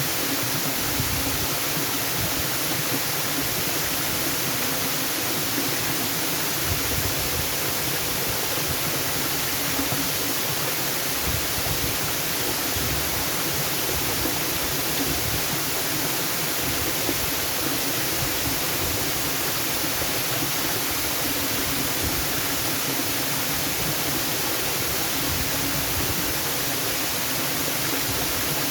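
Waterfall: water rushing steadily, a constant full hiss with a low rumble beneath.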